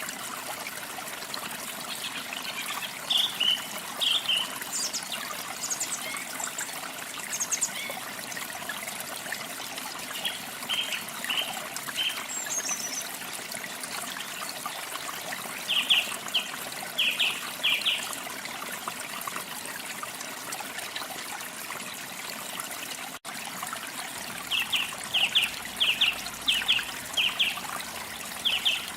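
A stream trickling steadily, with small birds chirping over it in short runs of quick repeated notes, four or five times.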